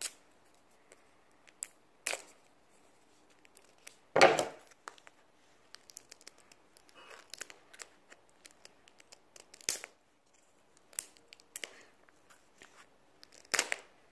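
Scissors snipping and working at a stubborn toy mystery egg: a string of scattered clicks, snaps and scrapes, with the loudest snaps about four, ten and thirteen and a half seconds in. The scissors are failing to cut it open.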